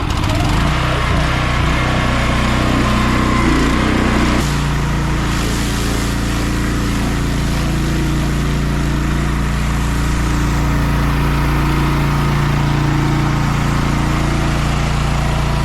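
Petrol pressure washer engine running steadily just after being pull-started. Its note shifts about four seconds in, then holds steady.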